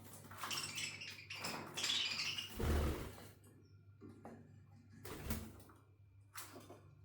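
Budgies' wings fluttering in several noisy rustling bursts, the longest in the first three seconds with a thud near its end, then two short flurries later on.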